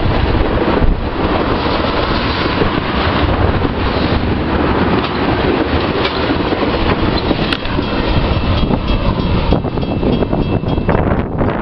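Freight train of ethanol tank cars rolling past, a loud steady rumble of steel wheels on rail. A faint thin high tone joins about eight seconds in.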